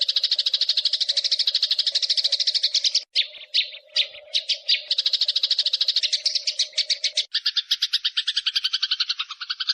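Eurasian tree sparrow in a rapid rolling chatter of about fifteen chirps a second, the excited 'fighting' call. It breaks into a few separate chirps about three seconds in, then rolls on. After about seven seconds it carries on a little lower in pitch.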